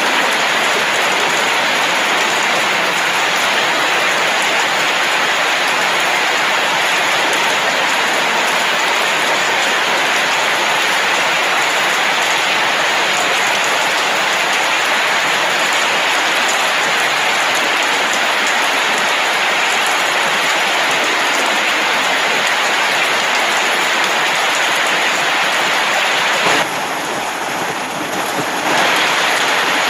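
Steady rain falling, a dense even hiss without a break; it turns a little quieter for about two seconds near the end.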